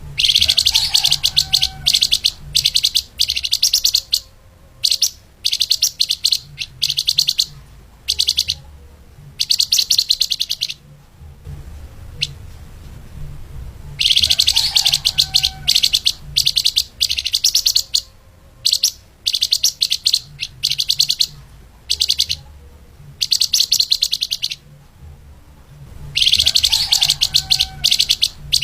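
Fast, tightly packed song of the songbird known in Indonesia as flamboyan or lemahan, sung as a training recording: rapid chattering trills in quick bursts with short pauses between them. The same run of phrases comes round again about every twelve seconds, so the recording is looped.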